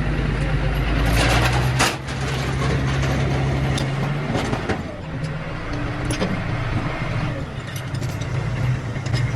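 An engine running steadily with a low hum, with a few sharp clicks or knocks over it.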